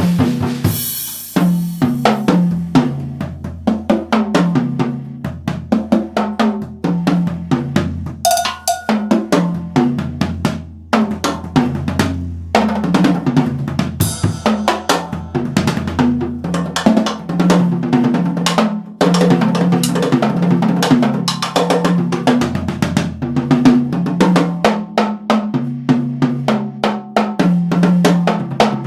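Yamaha drum kit played continuously in a fast, busy groove of snare, bass drum and cymbal strokes, with sustained low pitched notes running underneath that change every second or two.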